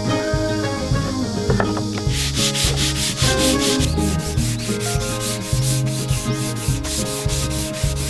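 Sandpaper rubbed back and forth by hand over a wooden board, in quick even strokes of about five a second. It starts about two seconds in and pauses briefly near the middle.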